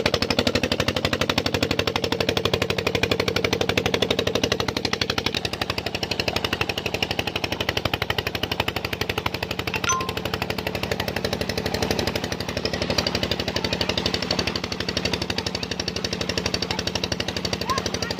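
Tube well pump engine running steadily with a rapid, even beat, in good working order.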